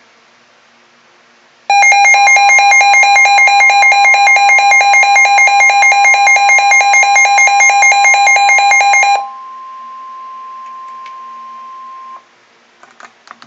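NOAA Weather Radio alert: a loud, rapidly pulsing electronic alarm beeps for about seven seconds over a steady single warning tone. The steady tone carries on alone, quieter, for about three seconds more and then cuts off. A few clicks follow near the end, announcing a severe thunderstorm warning.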